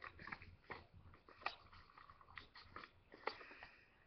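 A sheet of paper rustling and crackling faintly as it is folded and creased into an origami boat, in short irregular crinkles.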